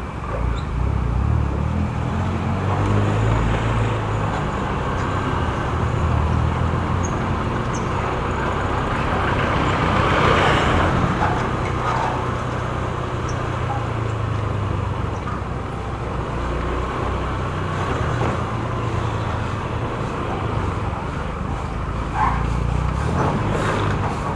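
Motorcycle riding in road traffic: steady engine and road noise, with a louder swell about ten seconds in.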